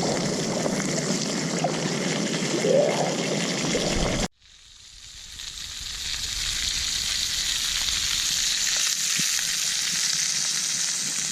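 Meat frying in beef tallow in a pan, sizzling steadily. About four seconds in the sound cuts out abruptly, then the sizzle fades back in, higher and hissier, and holds.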